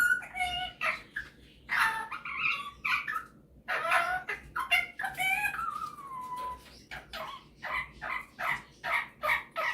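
Superb parrot chattering and whistling in a run of varied warbled phrases, with a drawn-out falling whistle about five seconds in. It ends in a quick series of short repeated calls, about three a second.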